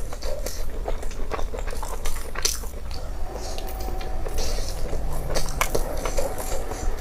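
A person chewing and biting grilled meat, with wet mouth clicks and crisp crunches scattered through.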